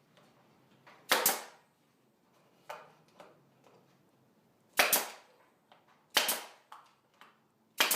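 Pneumatic brad nailer firing brads into 3/4-inch plywood: four sharp shots a few seconds apart, some as quick doubles.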